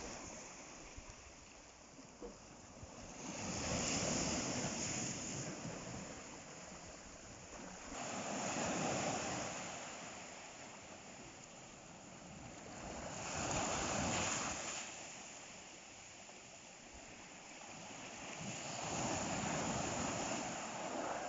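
Ocean waves breaking on the shore: four surges of surf, each swelling and then fading, about five seconds apart.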